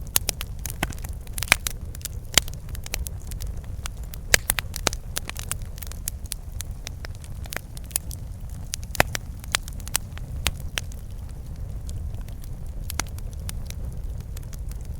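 Campfire crackling, with sharp snaps and pops coming thick for the first ten seconds or so and thinning out after, over a steady low rumble.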